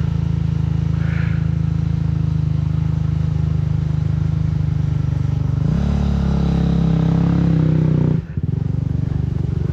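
Dirt bike engine running steadily, then revving higher for about two and a half seconds past the middle, dropping out for a moment and settling back to a steady note.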